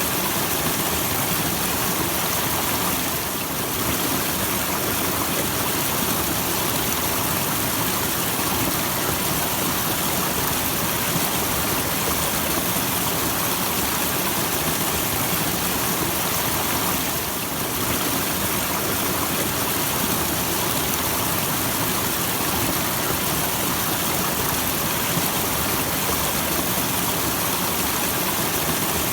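Small waterfall: a steady rush and splash of falling water, easing slightly for a moment twice.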